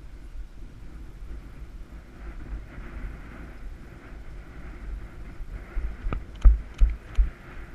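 Wind rumbling across the microphone, with four sharp knocks or thumps a little after six seconds in.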